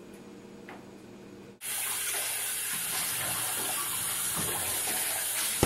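Quiet room, then about one and a half seconds in a kitchen tap starts suddenly and runs in a steady stream of water.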